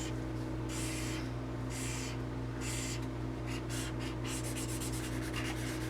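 Drawing on paper: a series of scratchy strokes, longer ones about a second apart, then quick short strokes from about four seconds in, over a steady low electrical hum.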